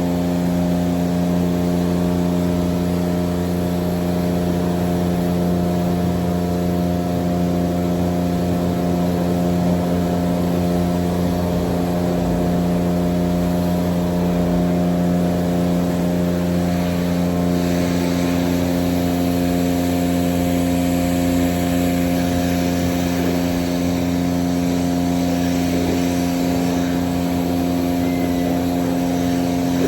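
Steady machine hum of car wash equipment running at a constant pitch, with a hiss of spraying joining about halfway through.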